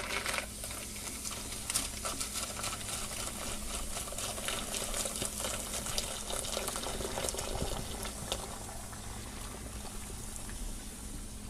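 Just-boiled water poured into a bath of baking soda and aluminium foil, with a steady crackling fizz of bubbles.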